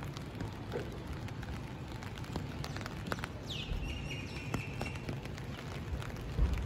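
Outdoor ambience with a steady low rumble and a few faint ticks, and a single bird call a little past halfway: a quick downward whistle that levels off and holds for about a second.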